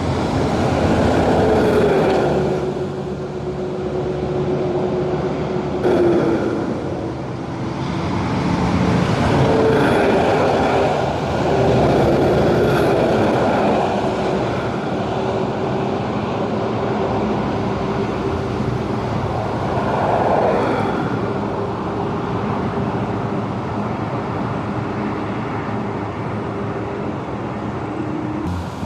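Heavy trucks driving past over a road bridge: continuous tyre and engine noise with a steady drone, swelling several times as vehicles pass close and then fading.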